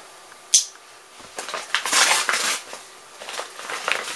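A package being opened and its packaging handled by hand: a sharp click about half a second in, then bursts of rustling and scraping.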